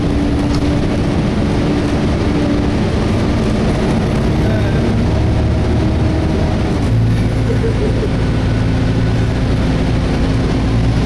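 Volvo B7TL double-decker bus engine and cooling fan heard from inside the moving bus: a steady drone whose tones step down in pitch about three seconds in and again about seven seconds in. The cooling fan runs without screeching.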